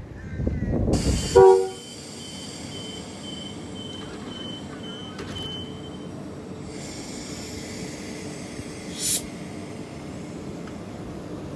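Train rumbling, ending in a short horn toot about a second and a half in, the loudest moment. A high beep then repeats about twice a second for roughly four seconds, and a short sharp hiss comes near the end.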